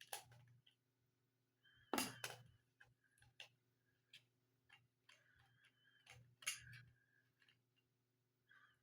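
Faint scratching and a few sharp clicks of a tool rubbing the broken contact trace on a calculator's circuit board clean, over a steady low hum.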